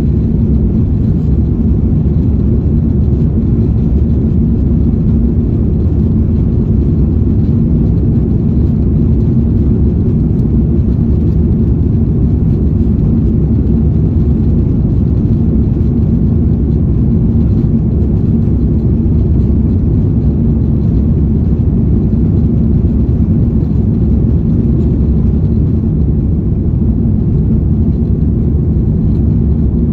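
Steady low rumble of an airliner's jet engines and rushing air heard from inside the passenger cabin, with a faint steady hum underneath, unchanging at high power during the takeoff and climb.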